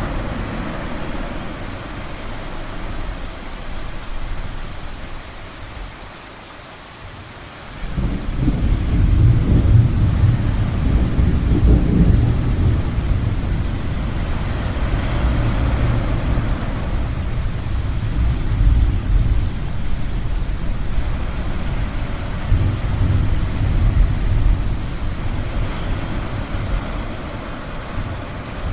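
Deep thunder rumbling over a steady wash of ocean surf. The rumble breaks in suddenly about eight seconds in after a short lull and rolls on, swelling and easing, for the rest of the time.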